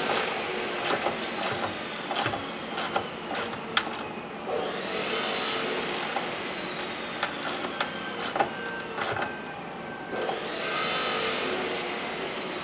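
Scattered clicks and knocks of hand tools and car parts being handled during hands-on work, over a hissing noise that swells and fades about every five seconds.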